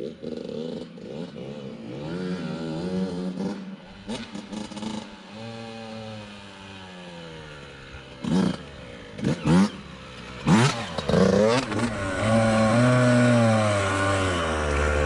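Yamaha YZ85 two-stroke dirt bike engine running at low speed, its pitch rising and falling as the throttle is worked. About halfway through there are several short sharp blips, and the engine runs louder and steadier near the end.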